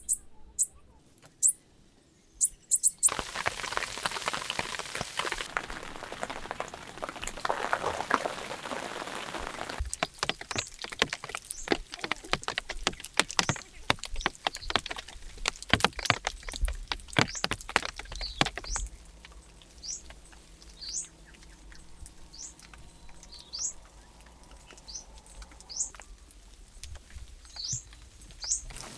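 Small birds chirping in short, high, falling notes at the start and again through the last third. In between, a steady hiss with scattered taps gives way to dense, irregular pattering and tapping for several seconds.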